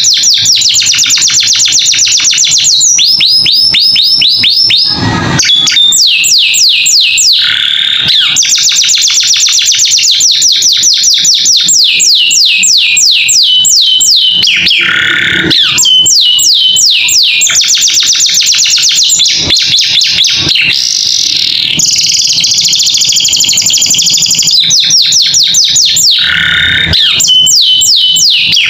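Domestic canary singing a loud, unbroken song of fast trills built from repeated down-slurred notes, broken by a few held whistles.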